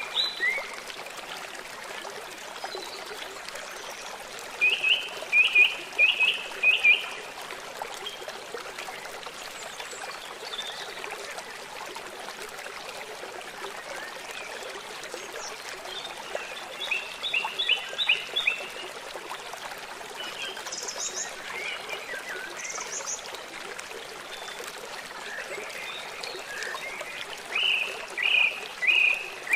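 Steady trickle of running water from a small stream, with an animal calling three times in quick runs of about five short, sharp notes, and a few faint high chirps between.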